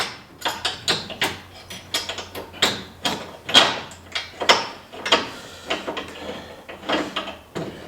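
Irregular metallic clinks and knocks of bolts and steel parts being handled and fitted, about two a second.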